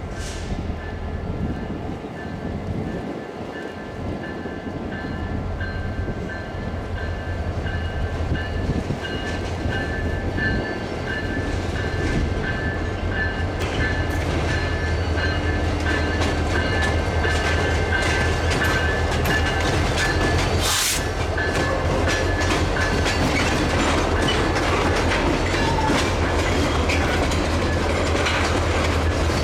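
CSX diesel locomotive leading a train of tank cars, its engine running low and steady while the wheels clack over rail joints. The sound grows louder over the first dozen seconds.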